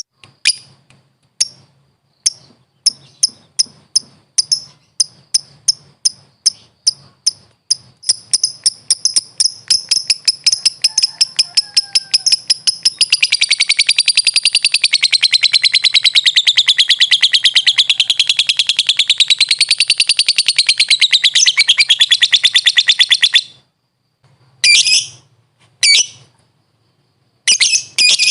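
Lovebird (Agapornis) calling: high, sharp ticks that come faster and faster until they merge into one long rapid chattering trill, the drawn-out 'ngekek' song, wavering up and down in pitch for about fifteen seconds. It breaks off, gives a couple of short bursts, and starts up again near the end.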